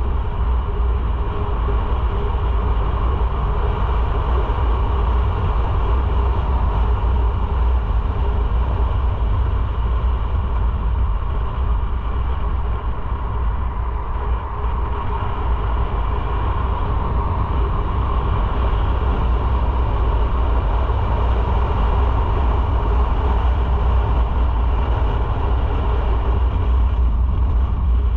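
Motorcycle underway at a steady pace: engine and road noise with a heavy, even low rumble that holds level throughout.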